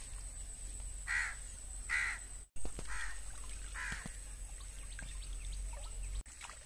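A bird calling outdoors, four short calls about a second apart.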